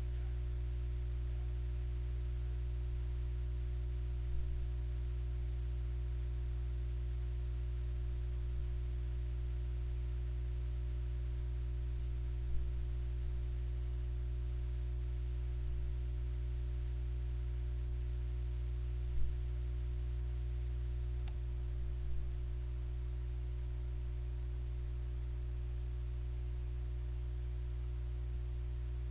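Steady low hum made of several constant tones, with a few faint, short clicks about 4, 12, 19 and 22 seconds in.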